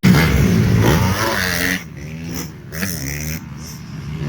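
Motocross dirt bike engines revving, the pitch rising and falling as the throttle is worked through the gears. The sound is loudest for the first two seconds, then drops to a quieter running note.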